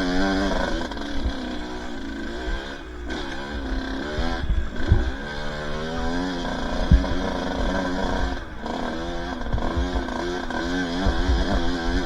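Two-stroke dirt bike engine being ridden, its pitch constantly rising and falling with the throttle and cutting off briefly a few times. Occasional sharp thumps come through as well.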